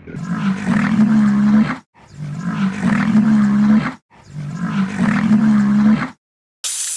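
A large animal's low, drawn-out call, heard three times in a row as the same call repeated, each lasting nearly two seconds with short gaps between. A hiss starts suddenly near the end.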